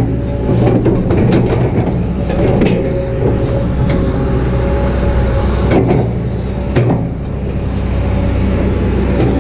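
Kobelco SK200-8 hydraulic excavator's diesel engine running steadily under working load with a steady hydraulic whine. A few sharp clanks come from the machine's bucket or linkage, about three seconds in and twice near six to seven seconds.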